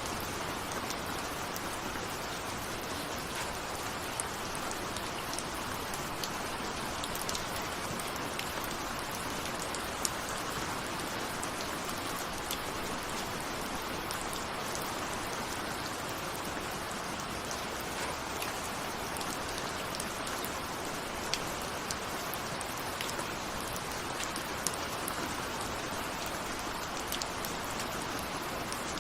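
Steady rain with scattered sharp drop ticks, raindrops striking a window.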